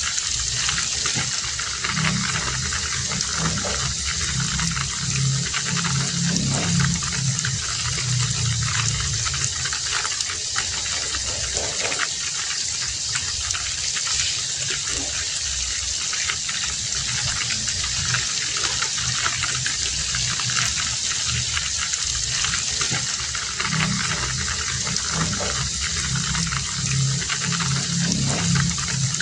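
Heavy rain falling steadily, a dense hiss speckled with individual drops and splashes. A low rumble swells twice under it, about two seconds in and again near the end.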